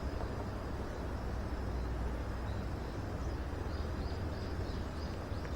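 Steady outdoor background noise with a strong low rumble, with faint, short high chirps starting about two and a half seconds in.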